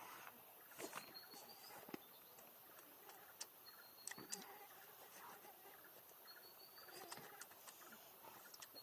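Faint outdoor ambience: a short, high, rising chirp repeats about every two and a half seconds, with scattered sharp clicks and crackles between.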